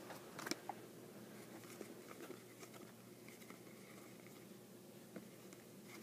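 Near silence with faint handling of trading cards: soft sliding and rustling, with a few light clicks, the clearest about half a second in.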